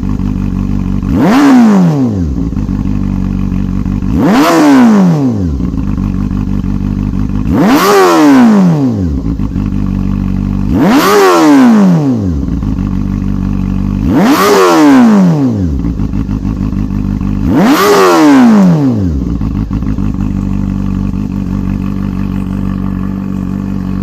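Honda CB400 Super Bollo inline-four revved through a GP-style exhaust with the baffle removed. It blips the throttle six times, about every three seconds, each rev climbing sharply and dropping back to idle, then idles steadily for the last few seconds.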